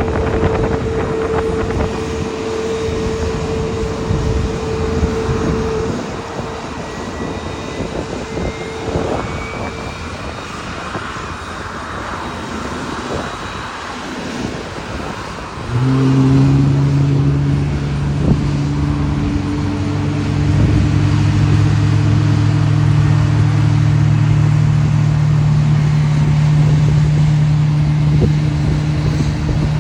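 Jet aircraft engines running, a steady mechanical hum with a faint rising whine. About halfway through, the sound suddenly gets louder, with a strong, steady low hum.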